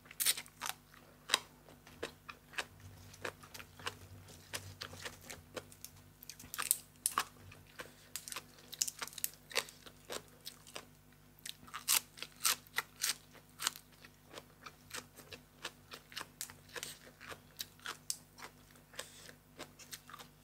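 A person chewing and biting into crisp food from a meal of papaya salad and raw vegetables: irregular sharp crunches, several close together at times, with quieter chewing between.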